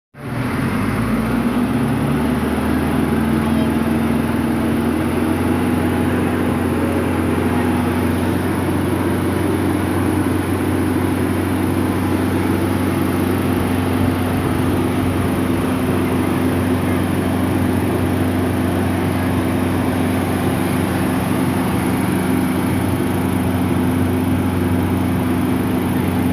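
Engine running steadily with a low hum. Its pitch rises over the first couple of seconds, then holds level.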